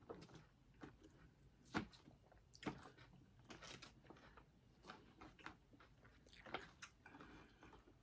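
A person chewing food with quiet, irregular crunches and wet mouth clicks.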